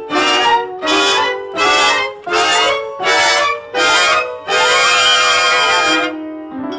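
Brass-led band music for the film score. Six short, loud chords are played about every 0.7 seconds, then one long chord is held before it cuts off.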